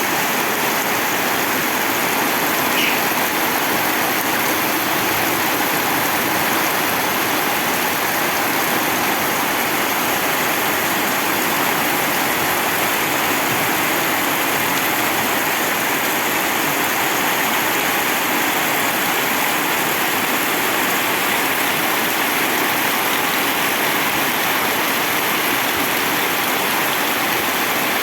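Rain pouring down steadily, an even unbroken rush of water sound.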